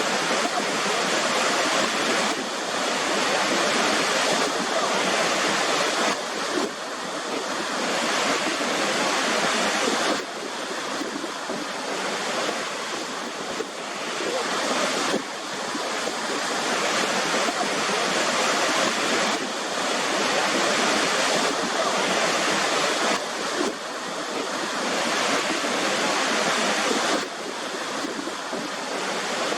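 Steady rush of a waterfall: a dense hiss of falling water, its level stepping up or down abruptly every few seconds.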